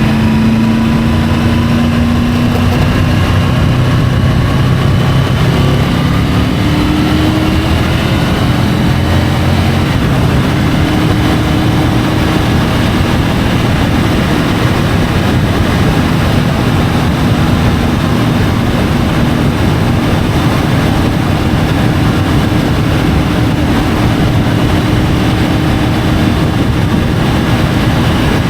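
Triumph Tiger 850 Sport's three-cylinder engine running under way, under steady wind and road noise. The engine note rises about six to eight seconds in, then holds steady.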